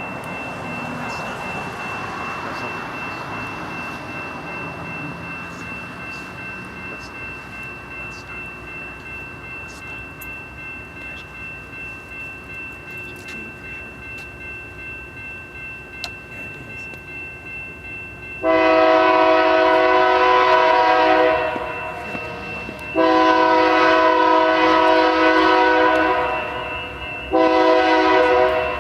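Locomotive multi-chime air horn sounding a long blast, a second long blast, then a short one, the opening of the long-long-short-long grade-crossing signal from an approaching train. Before the horn, a faint steady high tone over a low rumble.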